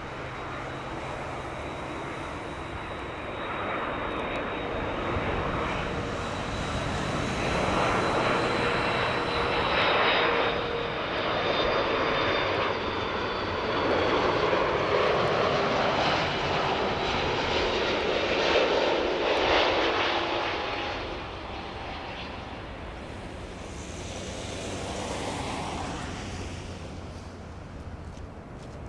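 Airliner passing over on its landing approach: engine noise swells, stays loud for about twelve seconds, then fades, with a thin whine slowly falling in pitch as it goes by.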